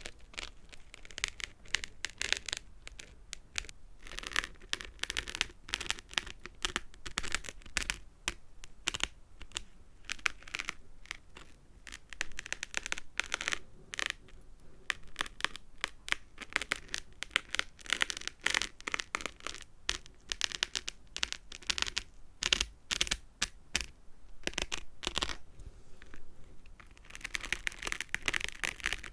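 Fingernails tapping and scratching on small hard objects close to the microphone: dense runs of quick clicks with short pauses between them, and a longer scratchy rustle near the end.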